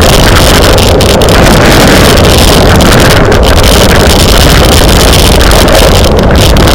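Wind rushing over the microphone of a camera riding along in a bicycle race, a loud, steady roar with no let-up.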